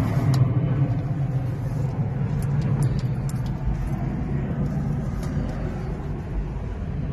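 Steady low rumble and hum inside a truck cab, with a few light clicks of handling in the middle.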